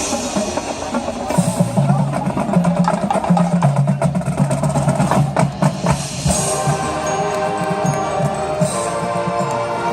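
High school marching band playing its field show: a busy drum and percussion passage, then held sustained chords take over about six seconds in.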